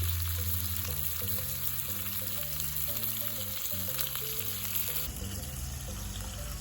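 Food sizzling and crackling in a hot skillet over a campfire, a steady frying hiss that thins somewhat about five seconds in, under background music with a low, stepping bass line.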